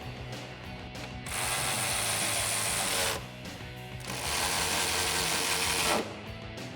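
A wrench running down exhaust hanger bolts in two spells of about two seconds each, with a buzzing, ratcheting mechanical sound.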